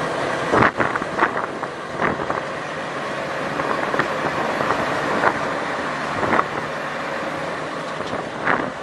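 Vehicle driving noise: a steady road and engine rumble with several short knocks scattered through it.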